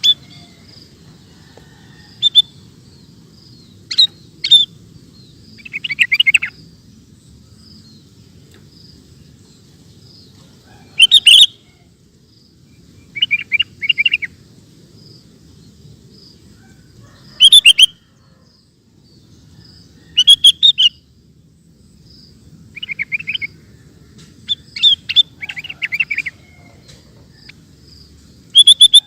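Sooty-headed bulbul (kutilang) calling in short bursts of bright chirpy notes every two to three seconds. Under the calls are a faint steady low noise and a faint, regular high pulsing.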